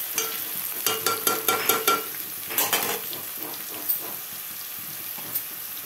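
Sliced ivy gourd (dondakaya) sizzling in hot oil in an aluminium pan, stirred with a metal spatula. In the first three seconds the spatula scrapes and knocks against the pan several times with a slight metallic ring. After that only the steady sizzle of frying goes on.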